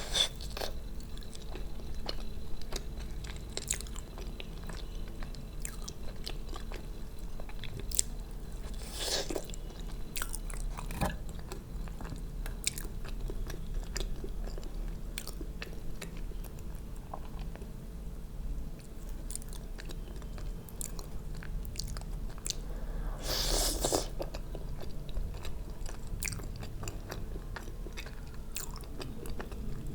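A person chewing and biting food close to the microphone, with many small wet mouth clicks and two louder noisy bursts, about nine seconds in and again near the 24-second mark.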